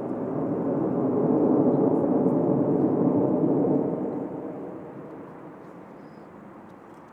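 Jet aircraft passing by at an air show, a loud roar that swells, peaks in the middle and fades away over the last few seconds.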